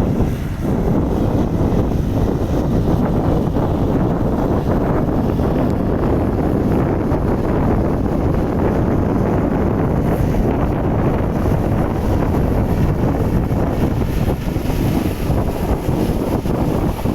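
Tractor running with a rotary tiller: a loud, steady, unbroken rumble, mixed with wind buffeting the microphone.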